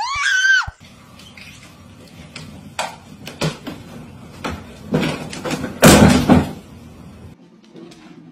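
Hard plastic knocks and a louder bang from a hooded cat litter box as a cat clambers on its lid; the loudest bang comes about six seconds in. At the very start, the tail end of a person's high, rising scream.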